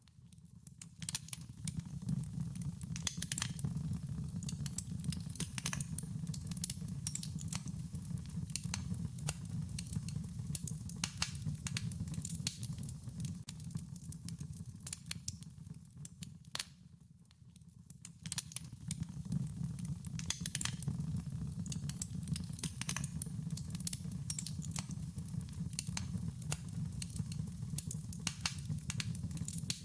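Wood fire crackling: frequent sharp pops and snaps over a low, steady rumble of flame. The sound dips away for about a second some seventeen seconds in, then returns.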